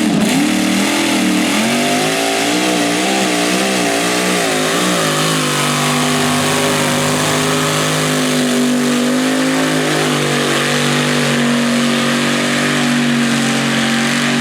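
Naturally aspirated, carbureted big-block V8 of a pulling tractor running through open zoomie headers at full throttle under load, pulling the weight sled. The revs waver up and down for the first few seconds, then hold steady, climbing slightly near the end.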